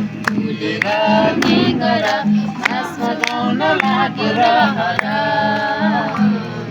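Group of men and women singing a Nepali song together over a steady, repeating low beat.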